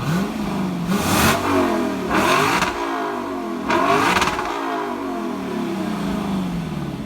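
A car engine accelerating hard up through the gears: its pitch climbs three times, each time broken by a short rushing burst as it shifts, then drops away gradually as it eases off.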